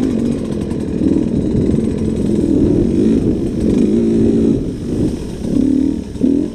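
Enduro dirt bike engine running and revving, its pitch rising and falling with the throttle, with a short surge near the end.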